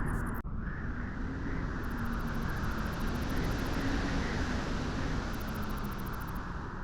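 Steady rushing wind on a beach, an even broad noise with no distinct events, broken by a momentary dropout about half a second in.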